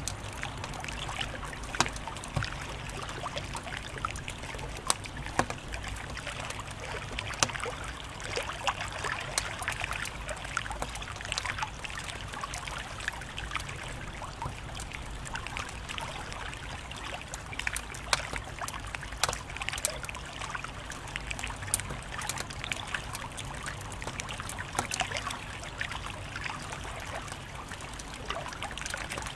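Wood fire crackling: many irregular sharp pops and snaps over a steady hiss and a low rumble.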